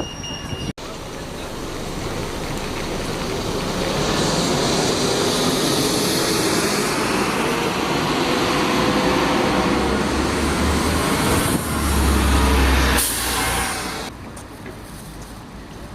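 A large vehicle drawing near and running close by, its rumble building over the first few seconds and holding steady, with a sharp burst of air hiss about thirteen seconds in before the sound drops away.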